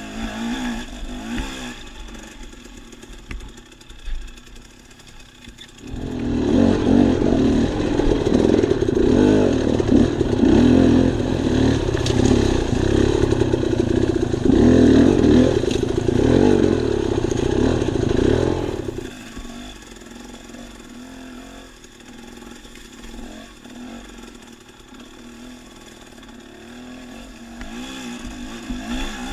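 Dirt bike engine running on a trail ride. The engine runs quieter at first, then about six seconds in it gets much louder with a wavering pitch under heavy throttle for roughly thirteen seconds, then drops back to a lower, steady run.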